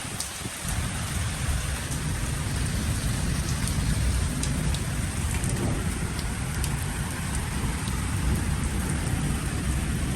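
Steady rain falling, with scattered drops ticking, over a continuous low rumble.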